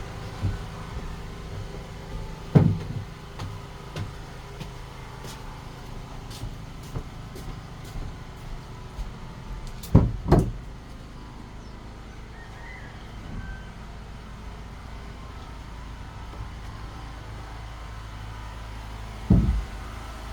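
A steady low motor hum, with a few heavy knocks on top: one about three seconds in, two in quick succession around ten seconds, and one near the end.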